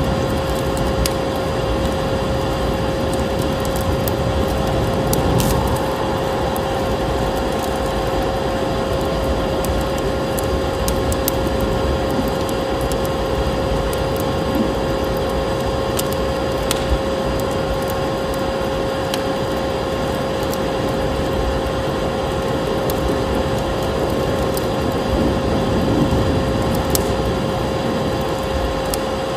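A vacuum cleaner running steadily with a constant hum, over a wood fire crackling with scattered sharp snaps and a steady rush of storm wind.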